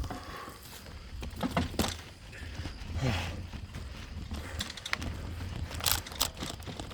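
Bicycle riding over a dirt trail: scattered clicks, knocks and rattles from the bike over a steady low rumble.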